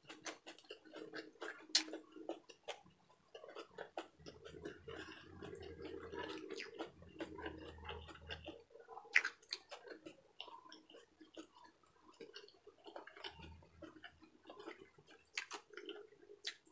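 A person chewing a mouthful of adobo close to the microphone: soft, irregular wet mouth clicks and smacks, with a sharper click about two seconds in and again about nine seconds in.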